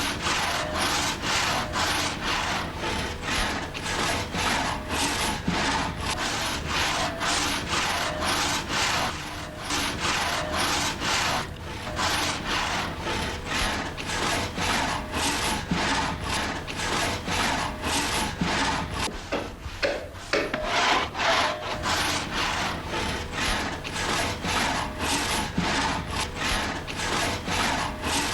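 Hand saw cutting through wood in steady back-and-forth strokes, about two to three a second, with a short break about twelve seconds in and another around twenty seconds in.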